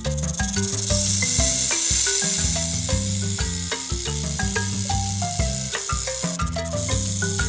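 A snake hissing, a long steady hiss that breaks off briefly near the end and starts again, over background music with short melody notes and a repeating bass line.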